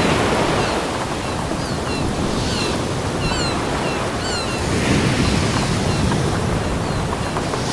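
Ocean surf: waves washing and breaking on a beach in a continuous rushing wash that swells and eases. Faint, short, high-pitched chirps are scattered over it.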